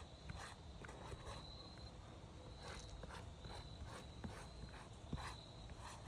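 Faint, irregular footsteps and scuffs on an asphalt-shingle roof, with a thin steady high tone in the background.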